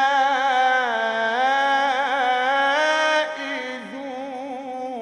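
Male reciter's voice in melodic Quran recitation, holding one long ornamented note whose pitch wavers and slides; it is loud for about three seconds, then drops to a softer continuing note.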